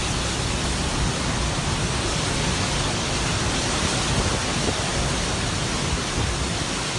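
Storm wind and rain making a steady, even rushing noise.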